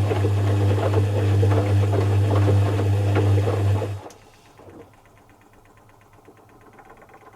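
Zanussi FC1000 compact washing machine's motor running with a steady hum and some rattling clicks, then cutting off suddenly about four seconds in. Faint rapid ticking follows.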